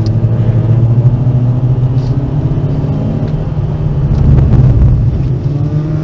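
Volkswagen Golf V's 1.4-litre petrol engine running under load, heard from inside the cabin as a steady engine note that swells loudest about four seconds in.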